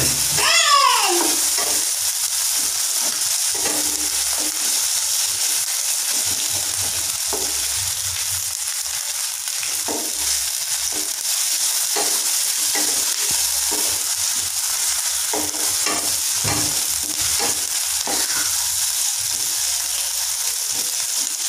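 Sliced onions and ginger-garlic paste sizzling in hot oil in a nonstick kadai, with a wooden spatula scraping and knocking against the pan as they are stirred. A short falling squeal about half a second in is the loudest moment.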